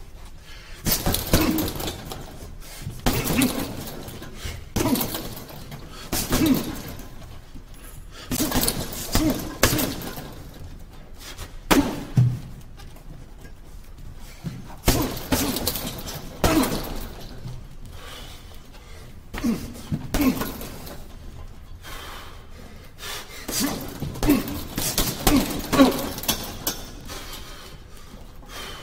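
Muay Thai kicks and punches landing on a striking target such as a heavy bag or pads, in repeated combinations of sharp hits with short pauses between them, echoing in a large gym.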